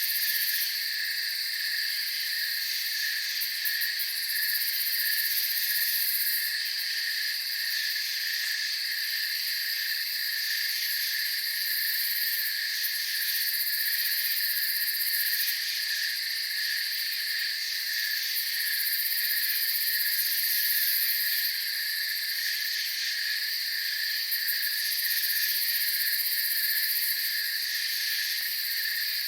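Night insect chorus of crickets, several continuous trills layered at different pitches, one pulsing rapidly and the highest swelling and fading every few seconds.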